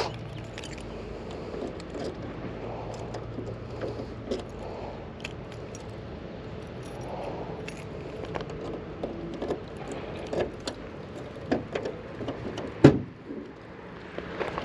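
A bunch of car keys jangling, with scattered light clicks and knocks as the trunk lock of a 1968 AMC AMX is worked. There is one loud thump about thirteen seconds in.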